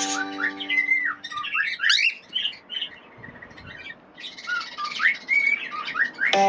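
Birds calling: many short, high notes that slide up and down, in two runs with a quieter pause between them.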